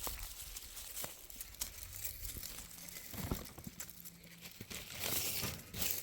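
Rustling and crinkling with scattered small clicks, louder near the end.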